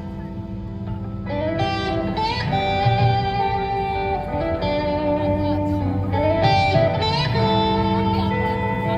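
Live indie rock band playing an instrumental passage: an electric guitar plays a melodic line of held notes over bass, getting fuller about a second in.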